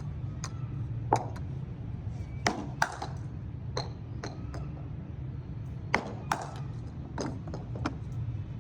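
Cricket batting practice: sharp cracks and knocks of a leather cricket ball on bat and ground. Several come in pairs less than half a second apart, with lighter taps between them, over a steady low hum.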